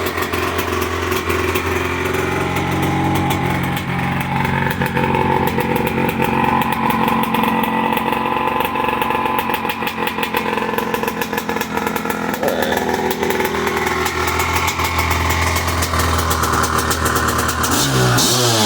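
1988 Kawasaki Tecate 4's two-stroke engine running at a steady idle after a rebuild, then revved up and down a few times near the end.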